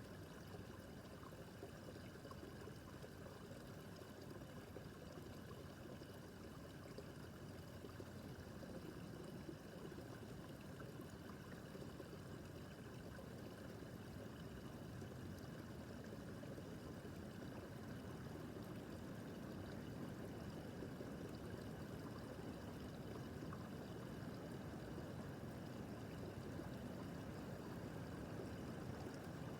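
Babbling brook: water running and trickling steadily over stones.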